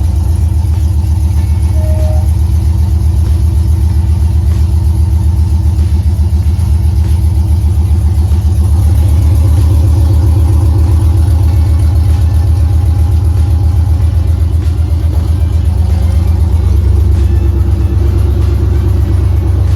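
Freshly swapped Chevrolet LS1 5.7-litre aluminum-block V8 in a Camaro running steadily, terribly loud.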